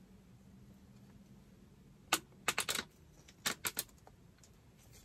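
Handling noise: a few sharp clicks and light rattles of hard parts being moved, in two quick clusters about two seconds and three and a half seconds in.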